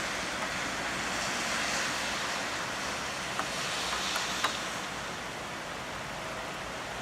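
Rain falling steadily in a thunderstorm: an even hiss with a few faint ticks.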